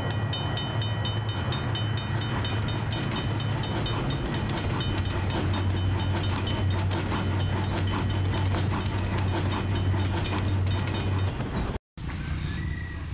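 Train sound effect: a train running on rails with a regular clickety-clack over a steady low rumble, and a repeated high ringing on top. It cuts off abruptly just before 12 seconds in, and outdoor background noise follows.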